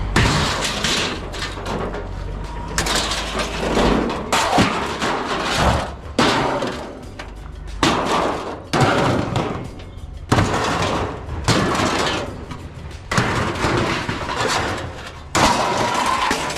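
Pieces of scrap metal being thrown onto a pile, a series of clattering, ringing crashes every second or two.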